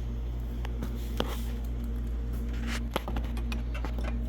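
A few light clicks and two sharper knocks as a steel bracket is handled and test-fitted, over a steady low background hum.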